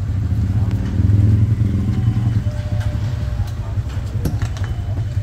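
A motorcycle engine idling close by with a steady low running sound, and a few faint clicks in the second half.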